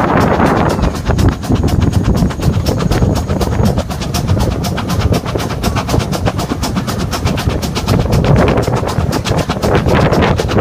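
Steam railway train running along the track: a steady heavy rumble with dense, rapid clicking throughout.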